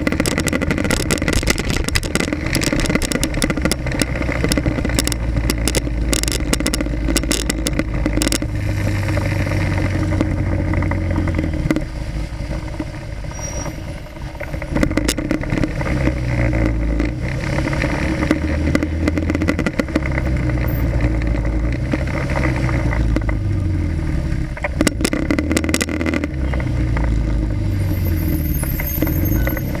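Motorcycle engine running in traffic, heard from a camera mounted on the bike's front, its note rising and falling as it speeds up and slows. It eases off for a moment about twelve seconds in. A crackling rush in the first part of the ride is typical of wind or mount rattle at the camera.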